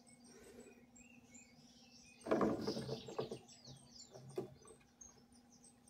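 Small birds chirping repeatedly in short high calls, over a faint steady hum, with one brief louder, muffled sound a little over two seconds in.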